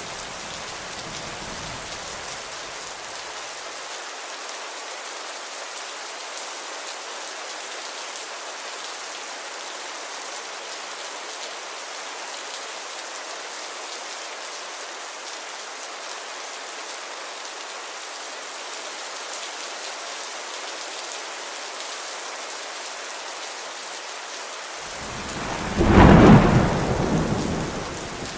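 Steady rainfall hiss. A low rumble of thunder swells about 25 seconds in, is loudest a second later and fades near the end; the tail of an earlier rumble dies away in the first few seconds.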